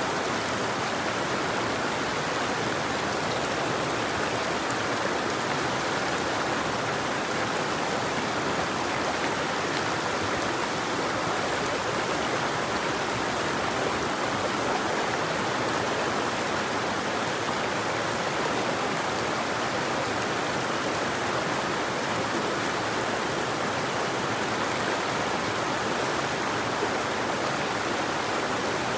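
River water flowing steadily: an even, unbroken rush of water with no birdsong.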